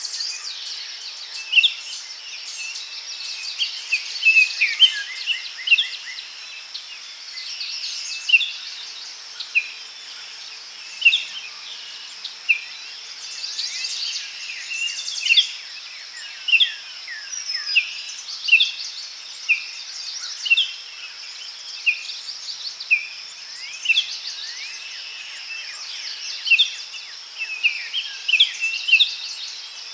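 Daytime forest ambience: many birds calling with short, quick chirps and whistled notes, over a steady high-pitched insect drone.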